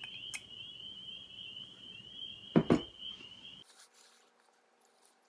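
Two sharp knocks of a fork against a mug, about two and a half seconds in, over a faint, steady, high-pitched trill. About three and a half seconds in, the background cuts abruptly to a thinner hiss with a faint, very high steady tone.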